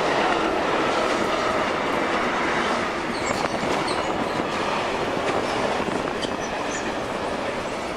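A full-size train running through on a dubbed sound effect, its wheels clattering on the rails with a few brief high squeals of the wheels; the sound slowly fades.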